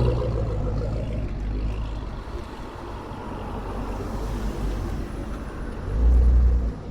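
Car engine rumble from a passing car, fading away over the first couple of seconds and leaving a quieter low rumble. A short, loud, low burst of engine sound comes near the end.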